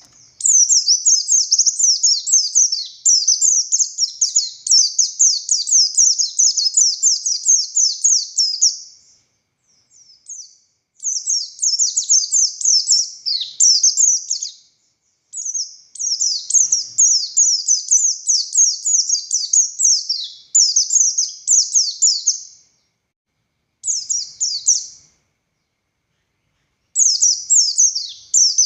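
Buxtoni white-eye (pleci) singing: long phrases of rapid, high twittering chirps, broken by short pauses of a second or two.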